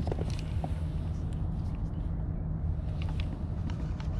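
Steady low rumble with a few light clicks and knocks near the start and again about three seconds in.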